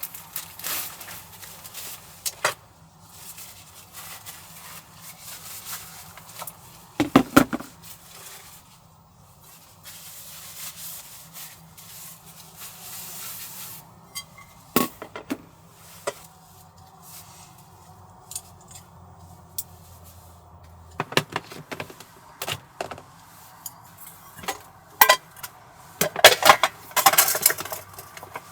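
Objects being handled inside a small van: scattered clicks, knocks and light rattles, with a cluster of quick clatters near the end, over a faint steady low hum.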